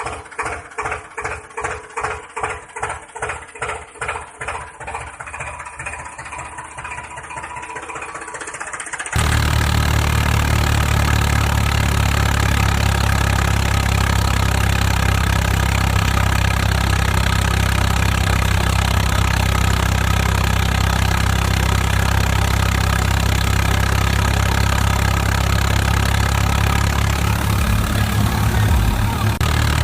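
Engine sound: a slow, even chugging of about two to three beats a second, which cuts abruptly about nine seconds in to a loud, steady engine drone.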